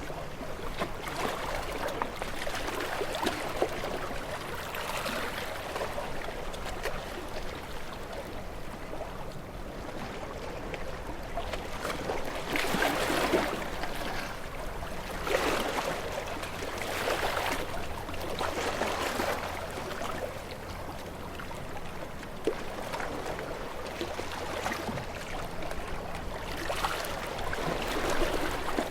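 Water lapping and sloshing in gentle, irregular surges every second or two, with no pitched tone.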